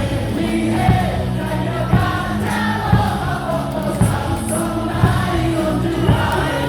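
Baseball stadium crowd singing a cheer song in unison over loud amplified music, with a heavy beat about once a second.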